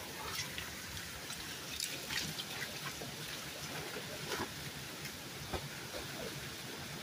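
Waterfall splashing steadily, with scattered drips and small splashes running through it.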